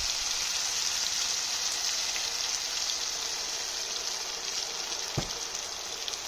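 Tengra fish and sponge gourd sizzling steadily in a frying pan as a little water goes into the hot spiced oil: a constant hiss that slowly grows quieter. There is one short knock about five seconds in.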